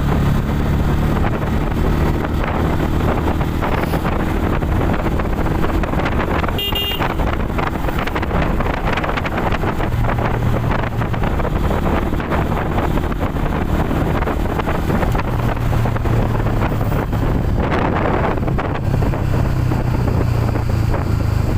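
Motorcycle engine running while riding, its pitch shifting with speed, with wind rushing over the microphone. A short high-pitched beep sounds about seven seconds in.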